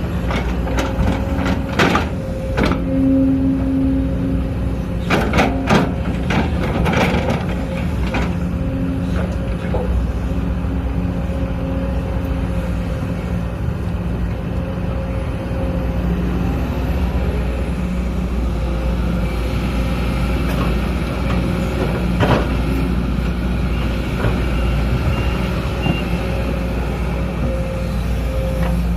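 Sumitomo SH210 excavator's diesel engine running steadily under load with a steady hydraulic whine, and several sharp clanks in the first several seconds and once more later on.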